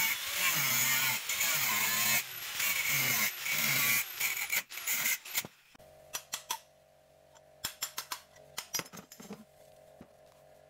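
Power tool running hard, its motor speed dipping and recovering under load, then stopping about five and a half seconds in. Scattered light clicks and taps follow over a faint steady hum.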